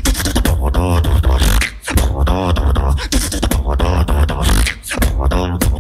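Solo vocal beatboxing: a deep, steady bass runs underneath a wavering, pitched vocal line that comes round about once a second, with sharp percussive strokes cutting in between.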